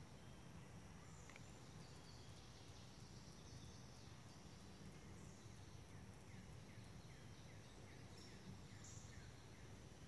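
Quiet forest ambience: a small bird gives a run of about ten short falling chirps in the second half, over faint insect buzzing and a low steady rumble.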